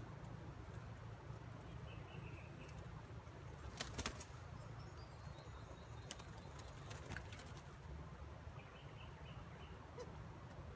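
Wild birds in the open: a short burst of wing-flapping about four seconds in, with faint twittering chirps a couple of seconds in, around five seconds and again near the end, over a steady low hum.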